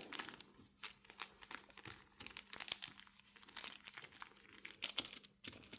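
Faint, irregular crinkling and light ticks from a tape-covered paper sheet being handled and tilted while ink is splashed onto it.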